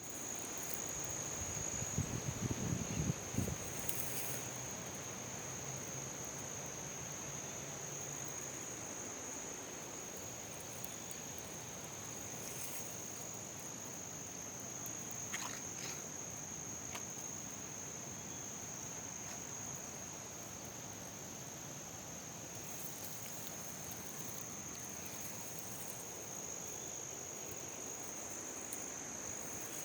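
Insects calling in a continuous high-pitched trill, with a few low thumps about two seconds in.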